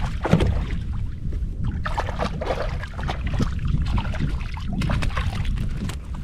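Water splashing and sloshing around a kayak, with irregular small knocks and clicks as a caught trout is handled aboard.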